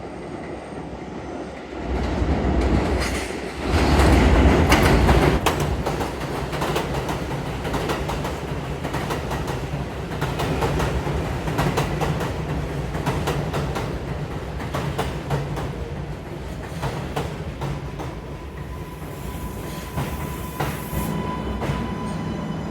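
R142A subway train running at speed: wheels clattering over rail joints above a steady low motor hum, loudest about four seconds in. A thin steady whine comes in near the end.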